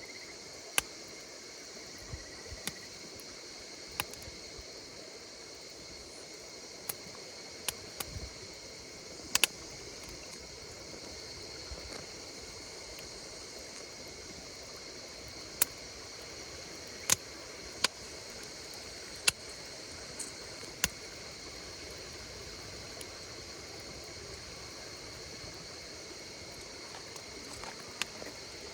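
Wood fire crackling, with irregular sharp pops, most of them in the first twenty seconds, over a steady chorus of insects chirring.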